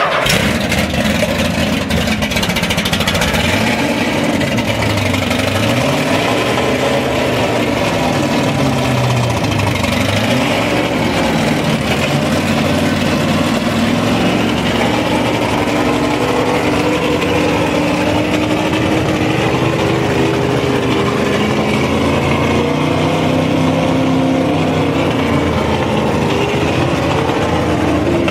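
McLaren race car engine running just after start-up, its revs falling and rising several times in the first ten seconds, then holding a steadier idle with slow swells in pitch.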